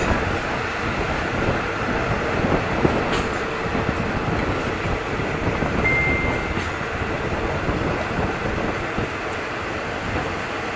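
Diesel-hauled passenger train running along the track, heard at an open carriage window: a steady rumble of wheels and rushing air. A brief high tone sounds about six seconds in.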